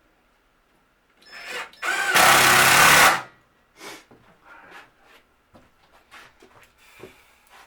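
Power drill driving a screw into wood: a short burst, then about a second of steady running. Light clicks and knocks follow as the work is handled.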